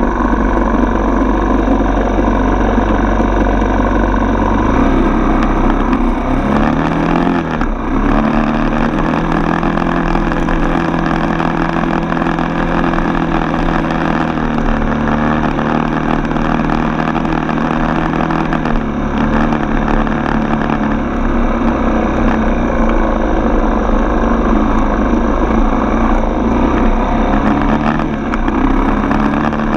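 Dirt bike's single-cylinder four-stroke engine running on the move. Its note steps and glides up and down with the throttle, with a quick rise about seven seconds in.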